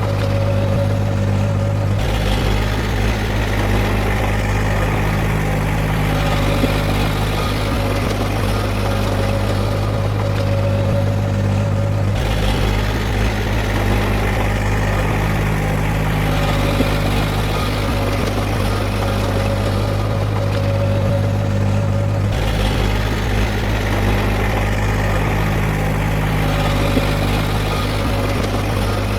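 Heavy diesel engine of earthmoving machinery running steadily, the same pattern recurring about every ten seconds.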